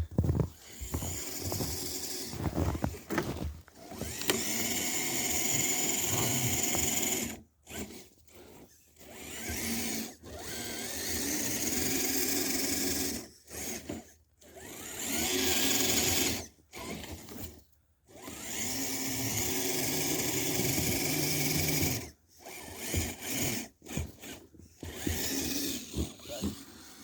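Electric motor and geared drivetrain of an RC scale crawler truck whining in repeated throttle bursts of a few seconds each, with short pauses between them and the pitch rising and falling with speed.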